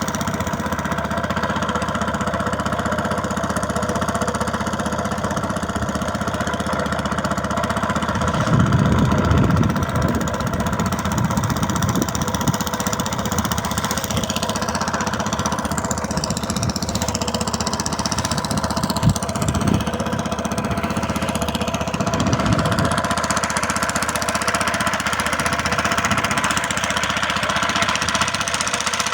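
Engine running steadily with a fast knocking beat, with bouts of low rumble.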